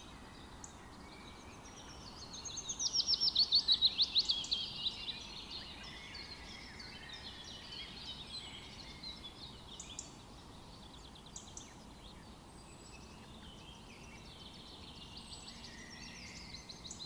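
Songbirds singing and chirping, with one loud, rapid trill of about twenty repeated notes from about two to five seconds in, over the steady rush of a river.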